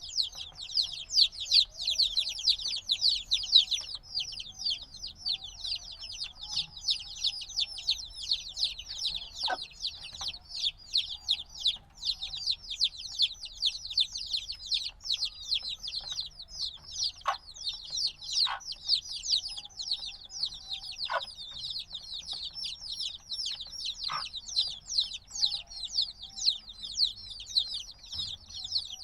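A brood of chicks a few days old peeping incessantly, many high-pitched falling peeps overlapping at a rapid rate, the loud distress-type peeping of chicks that still want the warmth of their mother. A few brief sharp clicks or taps come through now and then.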